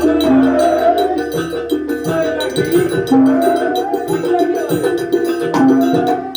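Live Banyuwangi kuntulan music: rapid percussion strokes over steady held pitched tones, with a melody line that slides up and down in pitch.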